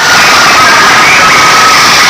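A dense crowd shouting and cheering over very loud music, the whole mix dense and unbroken.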